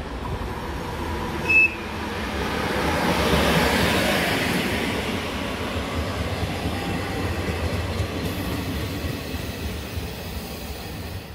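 A train passing, its wheels running on the rails with a steady rumble that builds to its loudest about four seconds in and then holds. A short, high-pitched beep sounds about a second and a half in.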